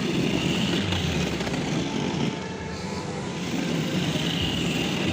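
Child's ride-on drift motorcycle toy running, with a steady motor whine over the rumble of its wheels on the ground. The whine eases off about halfway through and picks up again near the end.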